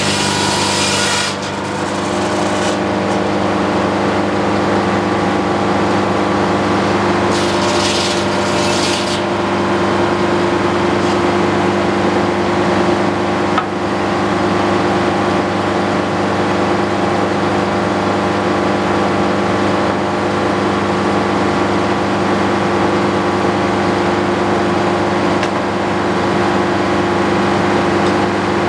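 Antique circular sawmill running, its engine and spinning blade giving a steady hum. A higher sawing hiss cuts off a second or so in, and another short burst of it comes about eight seconds in.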